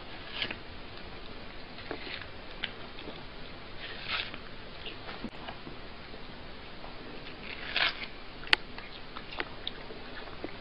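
A cat biting and chewing a piece of crunchy fruit: irregular crunches and small clicks, with one sharper, louder click past the middle.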